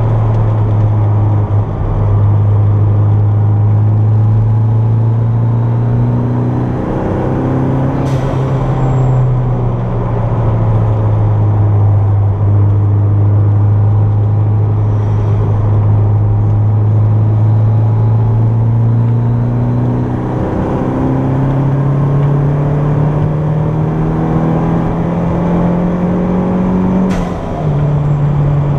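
Turbocharged Toyota MR2 engine heard from inside the car while driving on track: the note holds and climbs slowly, then drops sharply near the end at a gear change. Two short clicks, one about eight seconds in and one near the end.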